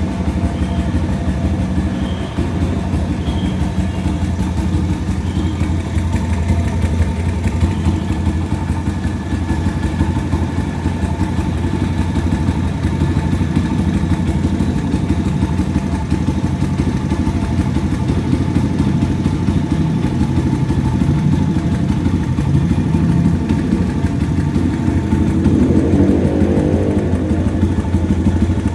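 YX 140 pit bike's single-cylinder four-stroke engine idling steadily, its note rising briefly about three seconds before the end.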